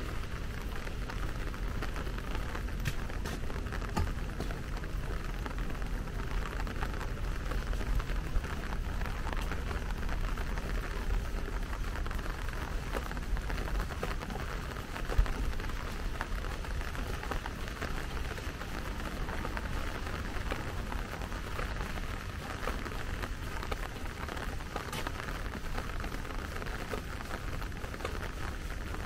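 Steady rain falling, with scattered drops ticking close by and a low rumble underneath. A single sharp tap stands out about fifteen seconds in.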